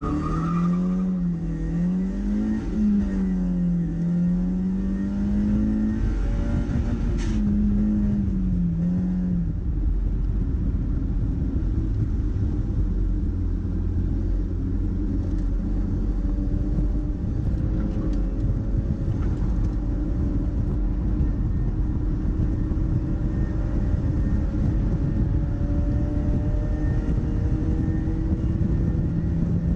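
Mazda MX-5's four-cylinder engine running, its note wavering up and down for the first several seconds. It then rises slowly and steadily in pitch under acceleration over the latter half, with a steady rush of wind and road noise.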